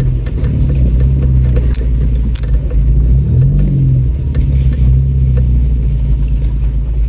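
Off-road truck engine running at low speed, its pitch rising and falling briefly about three seconds in, with scattered clicks and scrapes of a stick caught under the driver's side of the truck.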